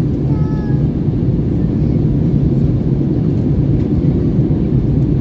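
Steady low rumble of cabin noise inside an Airbus A321 airliner, engine and airflow noise heard from an economy-class seat.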